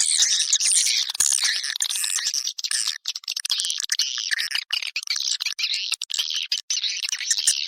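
Edible-nest swiftlet calls, a recorded lure sound for drawing swiftlets into a bird house: a dense, rapid stream of high chirps and twittering trills with brief gaps.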